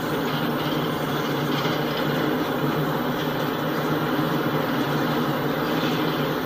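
Empty coal cars of a freight train rolling past, a steady rumble of steel wheels on rail with no single knocks or horn standing out.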